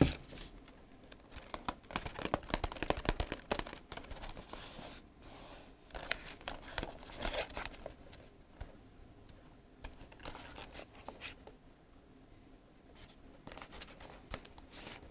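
Packaging torn and crinkled by hand: a busy run of rips, rustles and small clicks in the first half, then occasional handling rustles.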